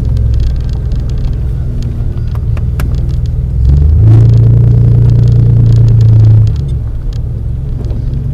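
Vehicle engine running at low speed while driving slowly, heard from inside the cabin as a steady low drone. It gets louder from about four seconds in and drops back about two and a half seconds later, with scattered small ticks over it.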